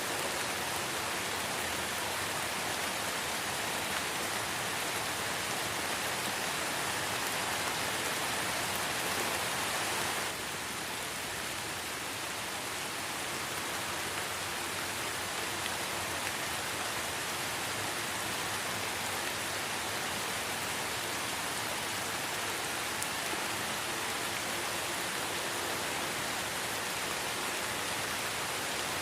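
Light rain falling steadily, an even hiss of drops. The level drops slightly about ten seconds in.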